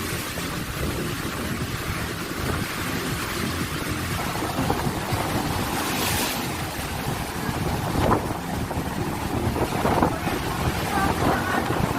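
Strong wind buffeting the microphone over the rush of rough sea waves, with a few louder surges of surf or gusts a couple of seconds apart in the second half.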